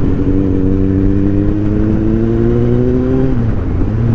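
Superbike engine pulling under acceleration while riding, its pitch rising steadily for about three seconds, then dropping sharply near the end.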